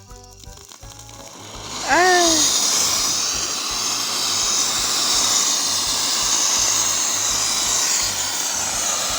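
Ground firework fountain (an 'árvore de Natal' type) catching about two seconds in with a short whistling chirp, then spraying sparks with a loud, steady hiss. Faint background music underneath.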